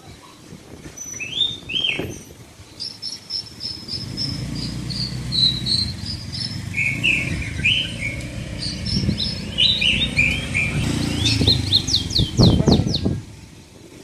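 Caged birds chirping: runs of short, high notes, with a few quick downward-sweeping calls near the end. A low rumble runs underneath for most of it.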